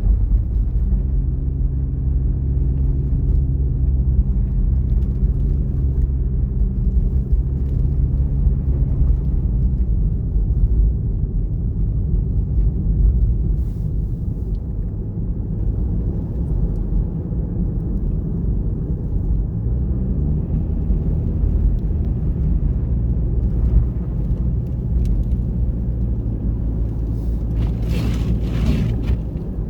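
Car driving along: a steady low rumble of engine and road noise with an even engine hum. A few brief higher-pitched noises come near the end.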